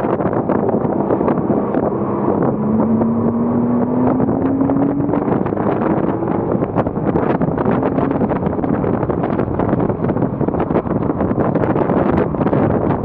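Porsche Cayman S's 3.4-litre flat-six engine pulling under acceleration on track: its pitch climbs steadily for about four seconds, drops back, then climbs again, consistent with an upshift. All of this sits under heavy wind and road noise.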